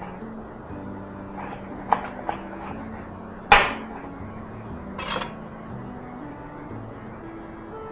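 Kitchen utensils clinking and knocking against dishes: a few light clicks, one louder ringing clatter about three and a half seconds in, and a short run of clinks around five seconds.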